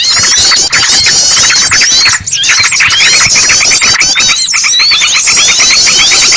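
Bird-lure recording: a dense, busy chorus of yellow-vented bulbul chattering, mixed with the high squealing distress calls of a trapped bird. The rapid chirps overlap almost without pause, with two brief breaks.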